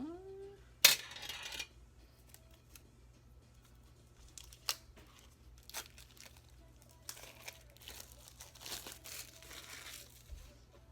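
Packaging being torn open on a tarot card deck: one loud rip about a second in, then a few small clicks and longer stretches of crinkling and rustling.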